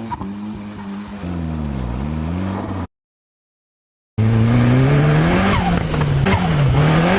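Turbocharged Nissan CA18DET four-cylinder engine of a Locost kit car revving up and down in short cut-together clips, with the pitch rising and falling several times. It goes dead silent for just over a second partway through, then comes back louder.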